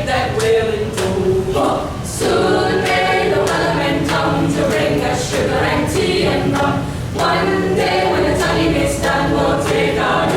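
A cappella vocal group singing in close harmony, several voices together without instruments, in sustained phrases.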